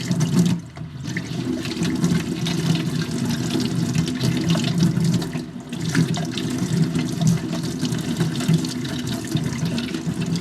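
Tap water running into a sink while a plastic tractor air filter housing part is washed in hot, soapy water. The stream is briefly broken twice, just under a second in and again about five and a half seconds in.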